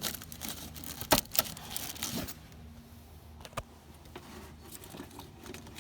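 Metal parts clinking and rattling as a just-freed bracket is handled under a car, with a few sharp knocks in the first two seconds. After that it goes quieter, with a faint steady hum and an occasional tick.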